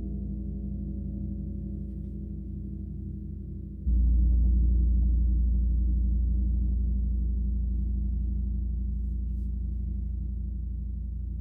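A gong ringing with a deep, sustained hum of many low tones. It is struck again about four seconds in: the deepest tones jump louder, then slowly die away.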